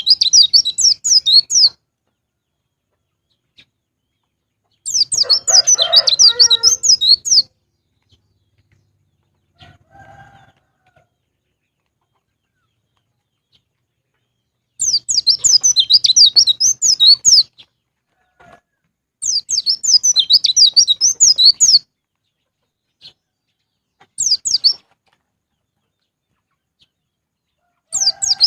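White-eye (pleci) song: bursts of rapid, high twittering, each two to three seconds long, separated by silent gaps of a few seconds.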